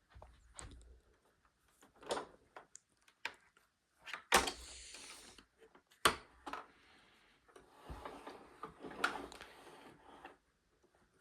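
A series of separate knocks and clicks with short rustling and scraping between them, the sharpest knocks about four and six seconds in: objects being handled, with no motor running.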